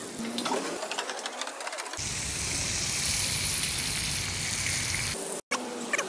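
Chicken pieces and lamb tail fat sizzling and crackling in hot oil in a karahi wok. About two seconds in a low rumble joins the sizzle, and it stops a little after five seconds.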